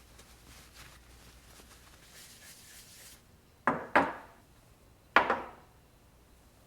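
Soft rustling of things being handled, then three sharp knocks of hard objects being set down or tapped on a hard surface: two in quick succession, then one more about a second later.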